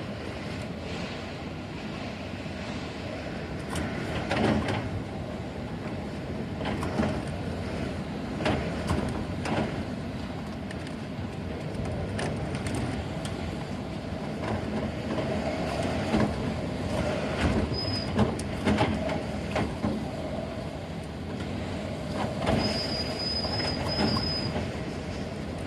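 Typhoon-force wind blowing in gusts, a dense rushing noise with repeated knocks and rattles. Brief high thin squeals come in twice in the second half.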